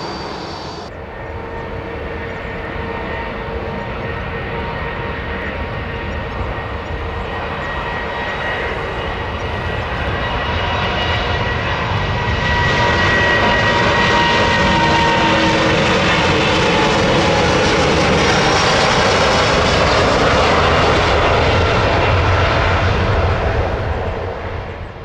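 Boeing 787-9 Dreamliner's jet engines passing by, growing louder to a steady high-power noise with whining tones that slide down in pitch as it goes past, then fading near the end.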